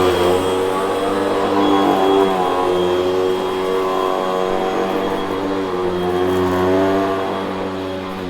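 Hoover vacuum cleaner running steadily, its motor hum wavering slightly in pitch as it works.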